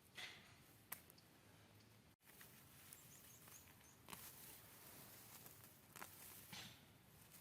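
Faint rustling and soft crackles of weeds being pulled by hand from garden soil, with a few louder rustles scattered through. A bird chirps faintly a few times in the middle.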